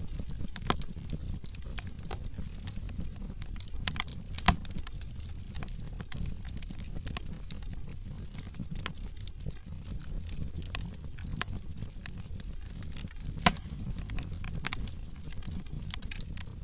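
Wood logs burning in a fireplace, crackling with irregular small pops, with two louder snaps about a quarter of the way in and again near the end, over a low steady rumble.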